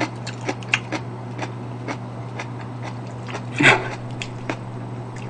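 Close-up crunchy chewing of crisp pickled garlic scapes: short crackly crunches about twice a second, one louder crunch a little past halfway, over a steady low hum.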